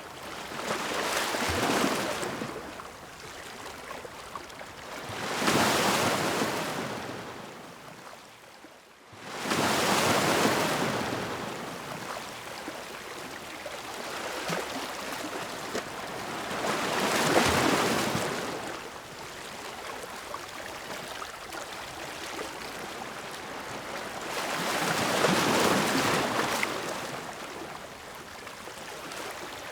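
Ocean surf: waves washing in one after another, five surges that each swell and fade over a few seconds. About nine seconds in, a short lull gives way to a sudden loud surge.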